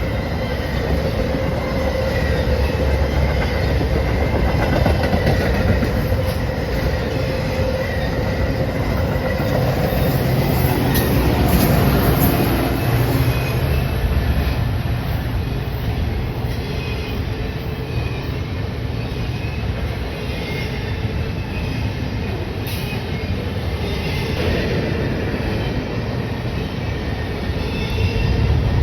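A train rolling past on the tracks, the noise of its cars on the rails holding steady throughout, with faint high steady tones over it.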